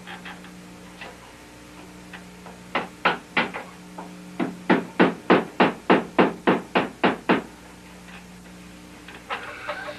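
Hammer blows nailing a wooden canoe rib in place: three strikes, then a quick, even run of about a dozen blows at roughly four a second.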